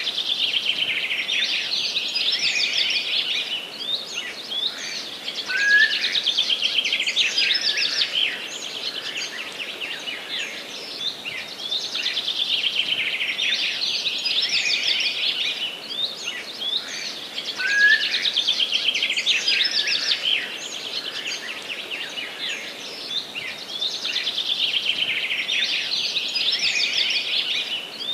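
Songbirds singing in a forest: phrases of rapid trilled notes that come back about every six seconds, with a short rising call now and then between them.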